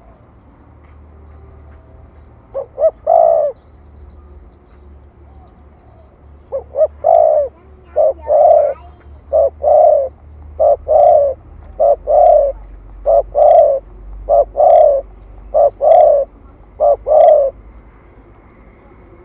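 Spotted dove cooing in the 'thổ thúc gù' calling style: two quick short notes and a longer coo about 3 seconds in, then from about 6.5 seconds a steady run of repeated coos, roughly one every 1.2 seconds, stopping near the end.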